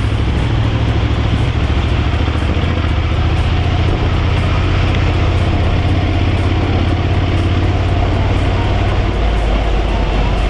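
Motorcycle engine running under way, with the rush of wind and road noise over it; the engine note shifts about nine seconds in.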